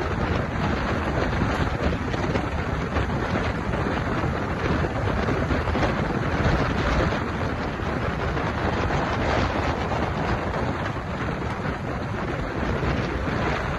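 Steady rushing noise of storm wind buffeting the microphone with heavy rain, even and unbroken throughout.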